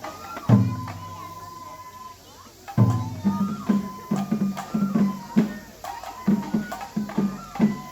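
Japanese festival hayashi music for a lion dance: taiko drums beating a quick, even rhythm, with two deep, ringing big-drum strikes, one about half a second in and one about three seconds in, under a held high flute line.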